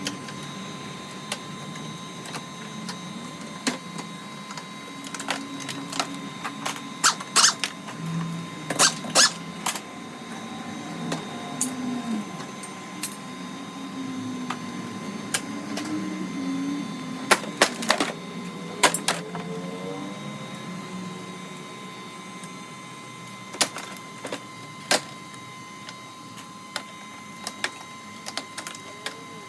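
Scattered sharp clicks, knocks and clanks of hand work on vehicle parts during car dismantling, thickest in the middle, over a steady mechanical hum.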